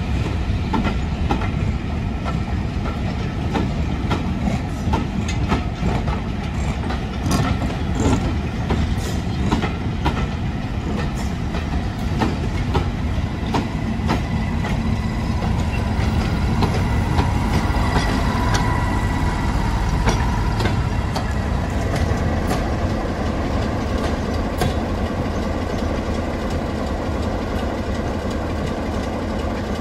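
Heritage passenger train of green coaches rolling slowly past, the wheels clicking repeatedly over the rail joints through the first half. The Class 73 electro-diesel at the rear goes by about halfway through, and a steadier, smoother running sound follows as the train draws away.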